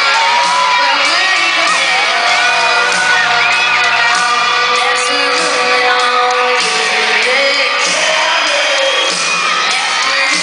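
Loud live concert music with a lead vocal, heard through high-pitched screams and whoops from the audience close by.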